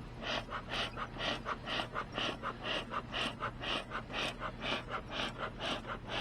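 Beekeeper's smoker bellows pumped steadily, each squeeze puffing air through the smouldering fuel, about three puffs a second, keeping the smoker lit and smoking.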